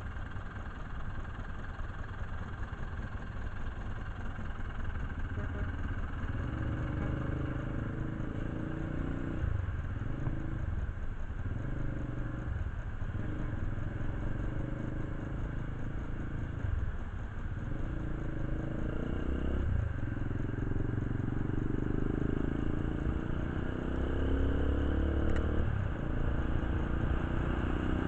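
Motorcycle engine running, its pitch climbing and then dropping back several times, as in gear changes.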